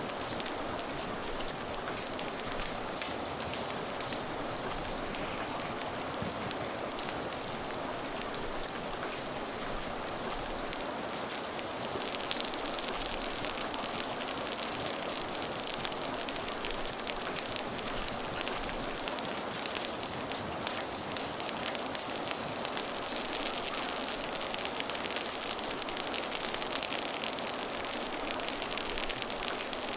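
Steady rain with a crackling fire, small pops ticking over the hiss. About twelve seconds in, the hiss gets a little louder and brighter.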